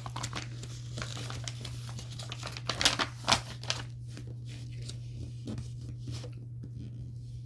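Crinkling and rustling handling noise with several sharper crackles about three seconds in, over a steady low hum.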